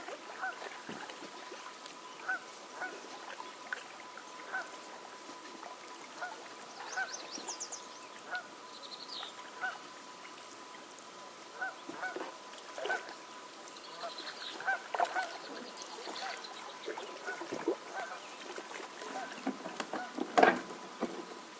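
Geese honking repeatedly, short calls every second or so, with one louder honk near the end. Small songbirds trill faintly in the background over a faint steady whine.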